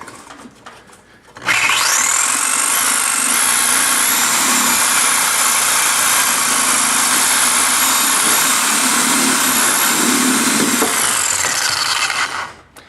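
Handheld power cutting tool spinning up about one and a half seconds in, running steadily under load with a high whine for about ten seconds, then winding down near the end.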